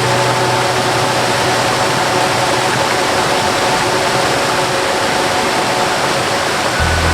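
Steady rushing of a waterfall with a soft melody of long held notes laid over it; a deep bass note changes to a lower one near the end.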